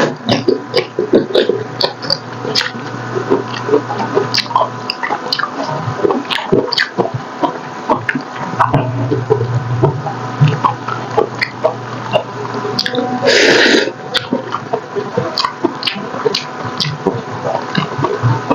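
Close-miked wet eating sounds: chewing and smacking on soft, sticky braised pork hock (paksiw na pata), a dense run of short wet clicks. One louder rushing sound of under a second comes about two-thirds of the way through.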